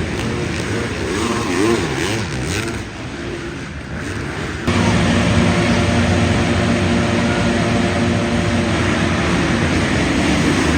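Dirt bike engines revving, rising and falling in pitch. About halfway through the sound changes suddenly to a steady engine drone held at one pitch.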